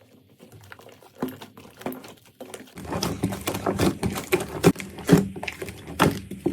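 Slime being squeezed and pressed by hand, giving a run of wet clicks and pops that grows louder and denser about halfway through, over a steady low hum.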